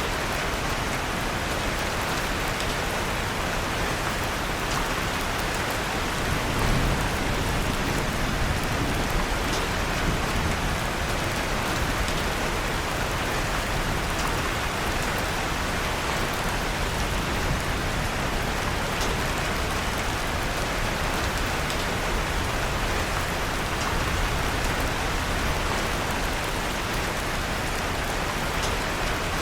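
Steady rain falling, with faint crackles of a wood fire mixed in. A brief low rumble swells about six to seven seconds in.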